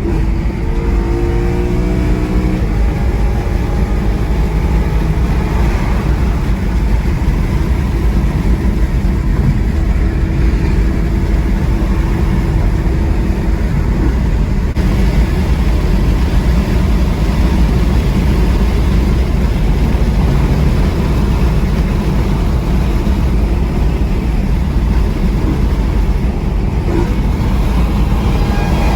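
BMW E93 M3's S65 V8 running through an exhaust with its catalytic converters cut out and the muffler still in place, a loud steady low rumble. The revs shift up and down in the first few seconds.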